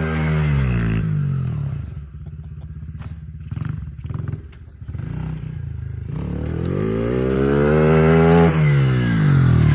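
Pit bike's small Chinese-made engine being ridden: the engine note falls off the throttle, runs low and uneven with some clattering for a few seconds, then revs up and drops again near the end.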